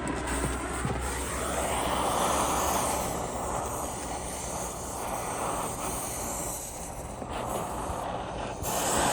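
Gas torch flame blowing with a steady rush that swells and eases, used to heat a seized wheel-stud nut on the tractor's hub.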